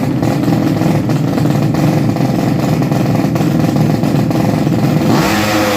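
Loud, rough-running drag-racing motorcycle engine revving. About five seconds in, the note changes to a climbing pitch as an engine accelerates hard.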